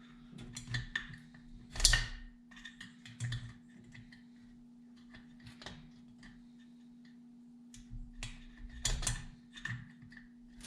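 Irregular clicks and light metallic clinks of pliers and small metal parts being handled during a chainsaw teardown, with louder knocks about two seconds in and again around nine seconds, over a steady low hum.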